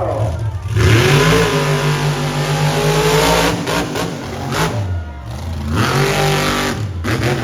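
Monster truck engine revving hard. It climbs to high revs about a second in and holds there, falls back briefly, then revs up again near the end.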